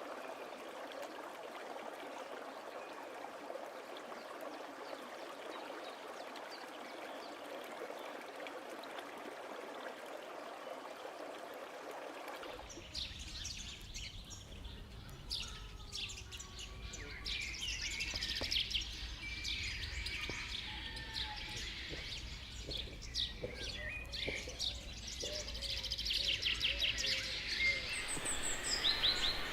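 Rainforest ambience: a steady, even hiss for the first twelve seconds or so. It then changes abruptly to many birds chirping and calling with gliding notes over a low rumble.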